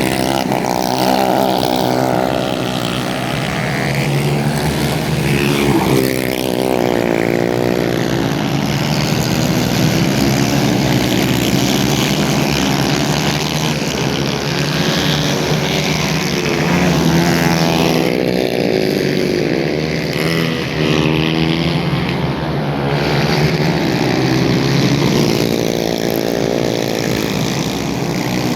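Several racing go-kart engines running at high revs, their pitch rising and falling over and over as the karts accelerate, lift off and pass by.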